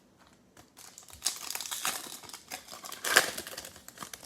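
Foil wrapper of a trading card pack crinkling as it is torn open and handled, starting a little under a second in and loudest about three seconds in.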